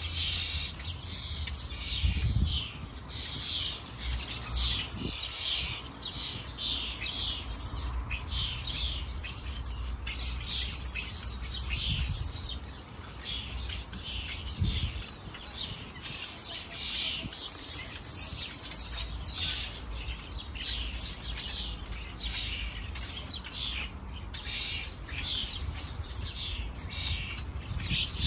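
Small garden birds chirping continuously: many quick, high chirps overlapping one another, with a low, uneven rumble underneath.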